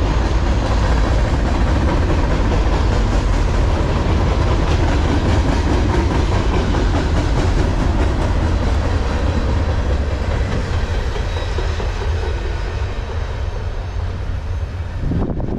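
Empty trash-container cars of a freight train rolling past, a steady rumble and clatter of steel wheels on rail, easing off a little over the last few seconds as the end of the train goes by.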